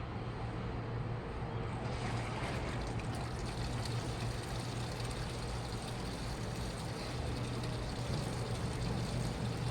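Washing machine running: a steady low motor hum, with the sound of water in the machine coming up about two seconds in.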